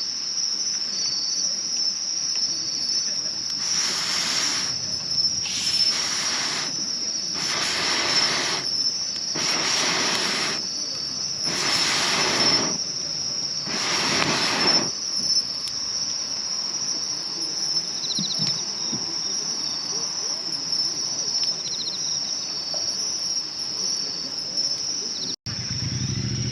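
Crickets and other insects trilling in a steady, high chorus. Between about 4 and 15 seconds, six rushing whooshes come about two seconds apart.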